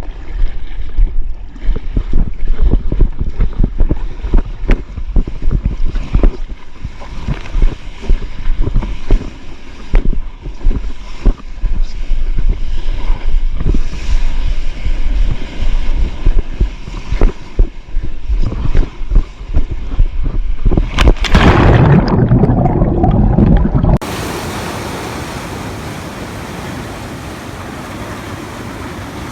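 Water slapping and splashing around a stand-up paddleboard, with wind buffeting the GoPro's microphone. About 21 seconds in, a loud rush of surf swamps everything for a few seconds, then the sound cuts abruptly to a steadier, quieter hiss of wind and sea.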